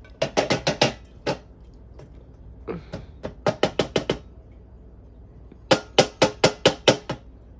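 Three bursts of quick, sharp knocks, six to eight strikes each: a cat food container being rapped against the bowl to knock the food out.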